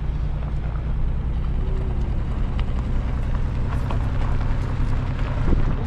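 Steady low engine and road rumble of a vehicle, heard from inside the cab with the window rolled up.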